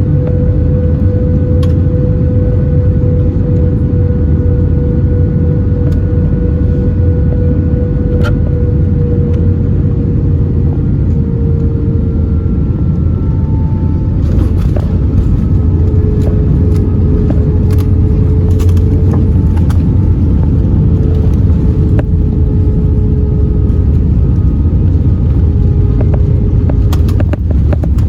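Cabin noise inside an Airbus A321 rolling on the ground after landing: a loud steady rumble with an engine hum that slowly drops in pitch. From about halfway through there are scattered rattles and clicks.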